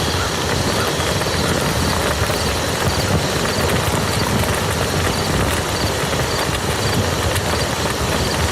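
Steady rain falling on a muddy field: a dense, even hiss of drops with fine pattering throughout.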